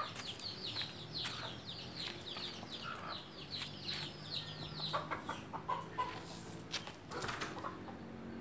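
Birds calling: a fast run of high, falling chirps, about five a second, for the first half, then scattered lower calls and a few clicks, over a faint low steady hum.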